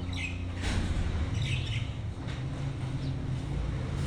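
Birds giving a few short chirping and squawking calls, one near the start and one about a second and a half in, over a steady low hum.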